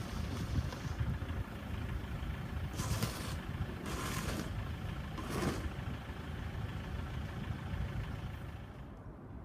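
Pellet fireplace running: a steady low rumble from the burning fire and its fan. Three short hissing bursts come between about three and five and a half seconds in.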